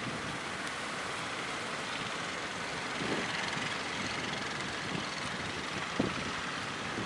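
Steady rushing noise of waves and strong wind, with a couple of short thumps about three and six seconds in.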